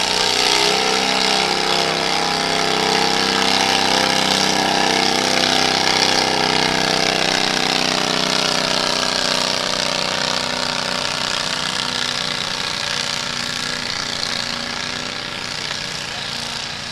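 Small modified pulling tractor's engine running hard at high revs through a pull, a loud steady buzzing note that grows gradually fainter over the last several seconds.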